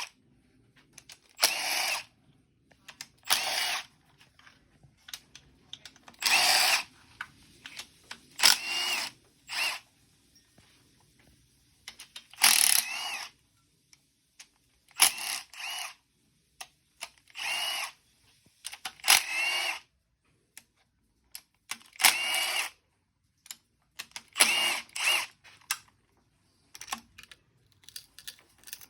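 Cordless power driver run in about a dozen short bursts, each about a second long with a rising motor whine, spinning bolts out of an engine being torn down.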